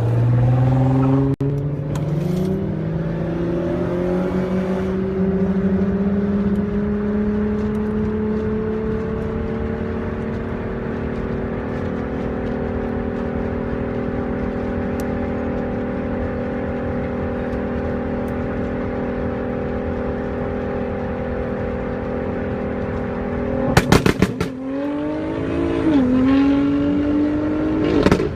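Tuned Nissan GT-R engine running hard at high revs, its note climbing for the first few seconds and then holding steady. About 24 seconds in, a sudden cluster of bangs cuts in and the note falls away: the engine blowing, after which it is spewing oil.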